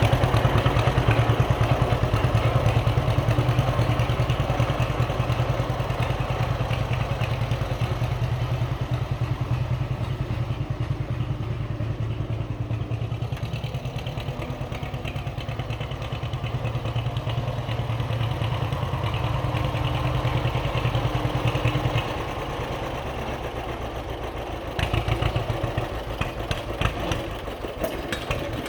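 John Deere H tractor's two-cylinder engine running steadily. About three-quarters of the way through it drops quieter, then picks up a little again.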